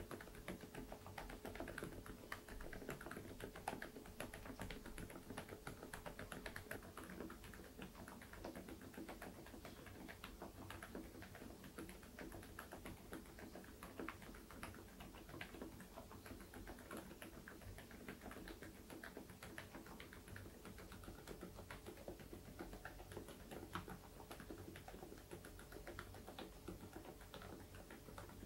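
Interpixel IPK104 PRO full-size keyboard with Outemu Peach V3 silent linear switches being typed on continuously: a quiet, rapid run of keystrokes.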